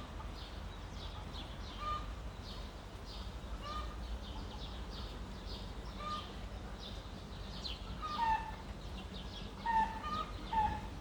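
Birds calling: a constant run of quick high chirps, with a lower short call about every two seconds that comes louder three times near the end, over a steady low background rumble.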